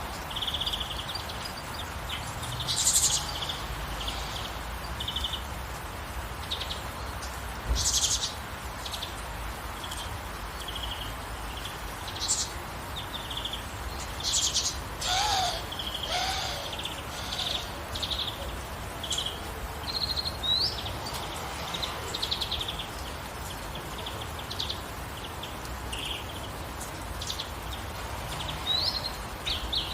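Songbirds chirping and trilling in short, repeated calls over a steady hiss of rain, with a lower, gliding call about halfway through.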